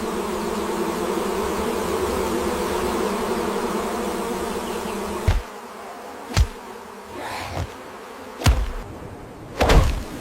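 Steady insect buzzing, like flies, for about five seconds, then cutting off. It is followed by a quieter stretch broken by four sharp thuds.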